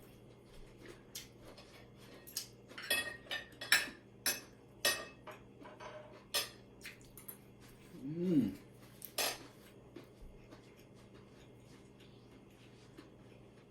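Cutlery clinking and scraping against a plate or bowl while eating: a run of sharp clicks and clinks, with a short hum of a voice partway through, then it goes still.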